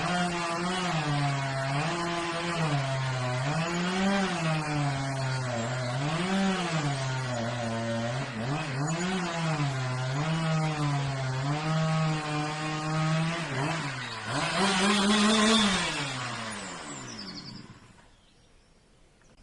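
Chainsaw engine running, its pitch rising and falling over and over as it is revved or loaded. A last louder rev comes about fifteen seconds in, then the engine winds down and stops.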